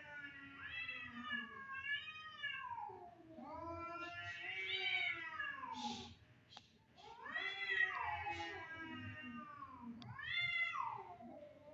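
Domestic cat in heat yowling: a series of long, drawn-out calls that waver up and down in pitch, with a brief pause around the middle.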